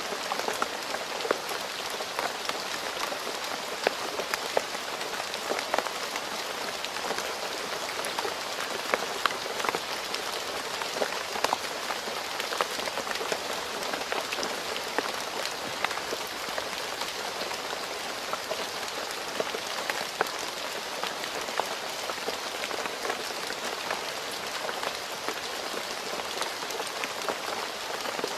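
Steady rain falling on a road, a dense even patter with many distinct drop hits throughout.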